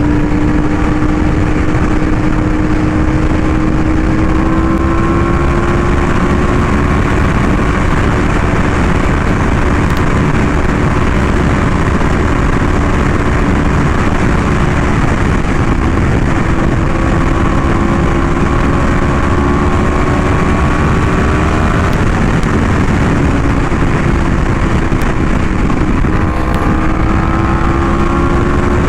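Yamaha R1M's crossplane inline-four through an SC Project exhaust, running at fairly steady highway revs, its pitch drifting gently up and down with the throttle. Heavy wind rush on the microphone underneath.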